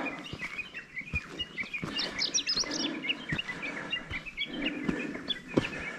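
Wild birds chirping: many short, high chirps overlapping, with a thicker, higher run of chirps about two seconds in.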